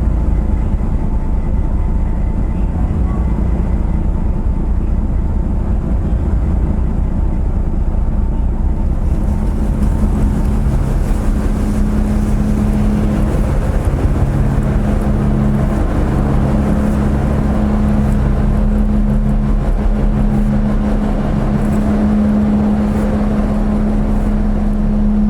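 Steady low drone of the car ferry Dai-12 Ōsumi's engines heard on board, with a constant deep hum. About nine seconds in, a brighter hiss joins it.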